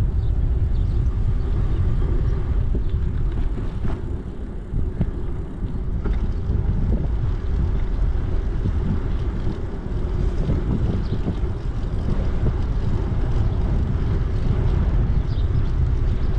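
Wind rumbling across the microphone of a camera riding along on a moving bicycle, a steady low noise.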